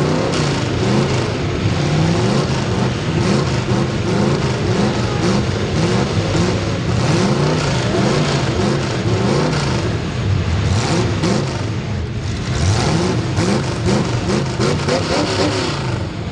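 Race car engines at racing speed, several at once, their pitch rising and falling over and over as the throttles open and lift.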